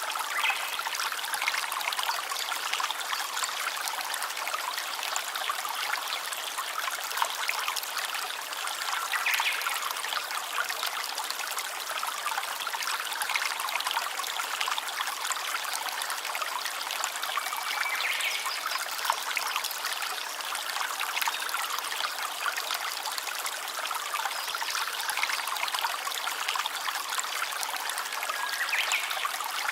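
A small stream trickling and running steadily, a continuous water sound with almost no low rumble. A few faint short tonal chirps come through over it now and then.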